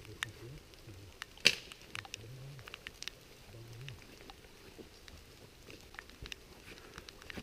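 Raindrops tapping irregularly on a GoPro's waterproof case, with one sharp, louder tap about one and a half seconds in.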